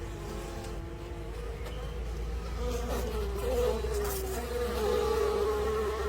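Bee buzzing in flight: a steady droning hum whose pitch wavers up and down, growing a little louder toward the end.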